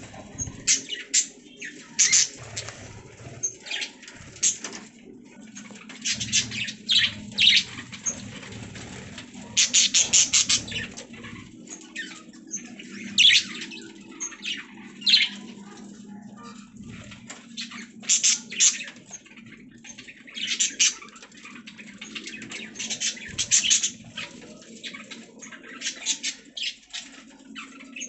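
Budgies chirping in quick clusters of short, high calls, pausing briefly between bursts, over a steady low hum.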